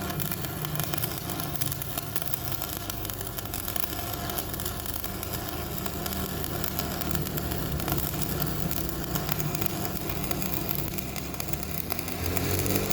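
Arc welding on a cracked steel truck wheel rim: a steady, dense crackle of the arc over the low hum of the welding machine.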